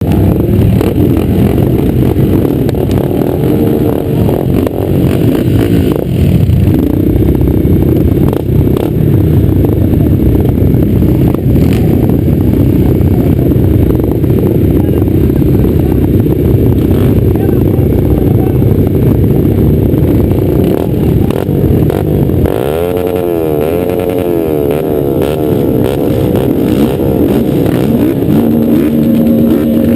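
Motocross motorcycle engines running loud and continuously on the track. About 23 s in, one engine stands out, its pitch rising and falling several times as the rider works the throttle.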